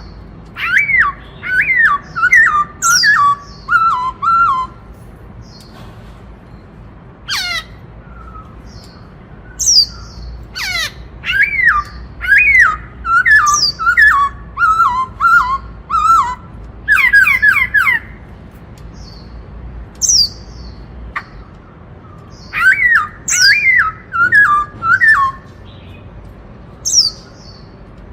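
Black-throated laughingthrush singing loudly: runs of clear, falling whistled notes, each run dropping in pitch, given in phrases of a few seconds with pauses between and single sharp high notes in the gaps. This is the 'bắt cô trói cột' song type.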